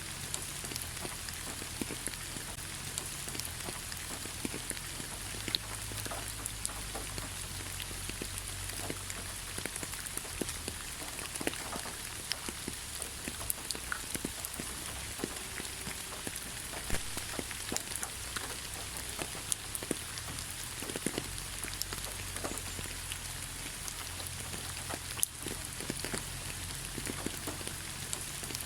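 Steady rain falling in a pine forest: an even hiss of rainfall with many individual close drops landing as sharp ticks, over a steady low rumble.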